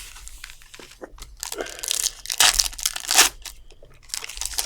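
Plastic wrapper crinkling and tearing in irregular bursts as a trading-card box and pack are torn open, loudest in the middle.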